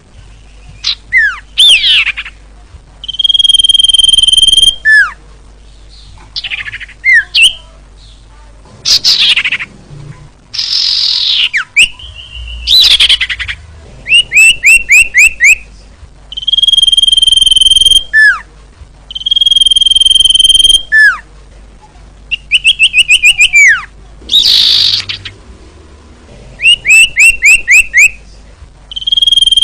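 Female common iora (cipoh) calling loudly. Long steady whistles each end in a falling slur, and they alternate with quick runs of about five short notes and a few raspy sweeping notes. This is the female call used to lure male ioras.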